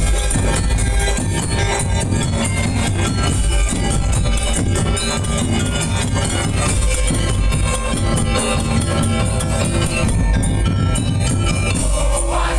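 Loud Madurese daul music: a percussion ensemble of drums and jingling, rattling percussion playing continuously, with the deep drums dropping out near the end.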